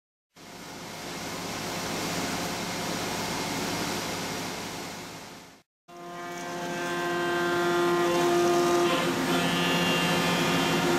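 Mori Seiki NT450 CNC machining centre cutting 7075 aluminium: a steady hissing rush fades in and out, then after a brief gap the machining returns louder with a steady whine of several tones that shift pitch a few times as the cut goes on.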